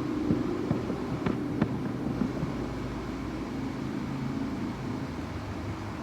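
Distant fireworks popping, with several sharp cracks in the first two and a half seconds, over a steady low hum.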